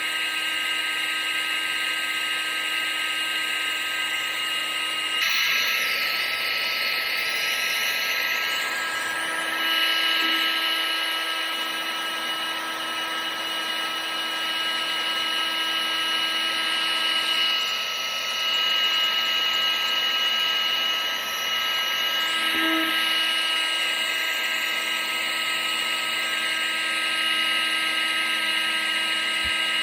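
Vacuum cleaner running continuously, a steady motor whine over a rush of air, used as white noise. Its tone shifts slightly about five seconds in.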